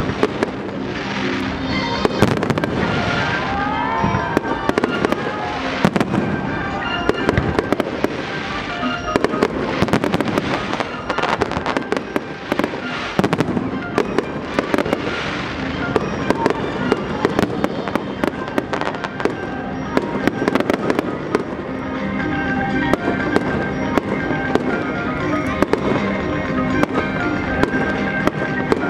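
Fireworks display: a continuous run of bangs and crackling bursts from exploding aerial shells, with music playing underneath.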